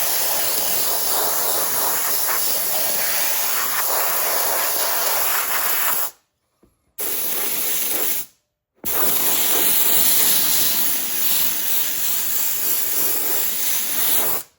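Heat gun blowing a steady, loud hiss of hot air to speed the drying of glue on the armrest foam. It cuts out suddenly twice around the middle.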